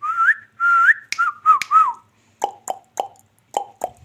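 Pet parrot whistling a run of short rising and wavering notes, then giving a series of short, sharp clicking chirps.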